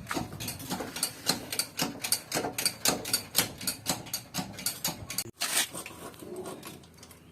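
Irregular sharp metallic clicks and knocks, a few a second, from hand tools working on metal. The sound cuts off abruptly about five seconds in and is quieter and sparser after that.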